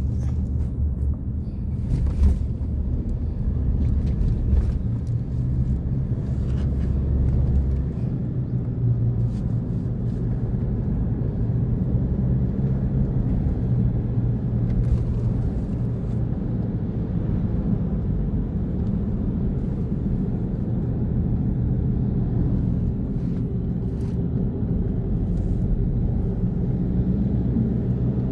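Steady low drone of a car driving on the road, engine and tyre noise heard from inside the cabin, with a few faint light knocks.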